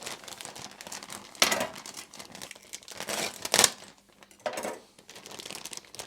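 Crinkling, rustling handling noise as broccoli florets are added to a pan, with louder rustling bursts about one and a half, three and a half and four and a half seconds in.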